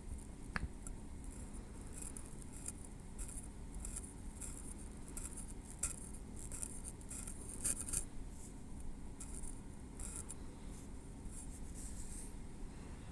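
Metal tweezers working through hair against the scalp: a continuous run of small, crisp clicks and scratches, busiest in the middle, with one sharper click about half a second in.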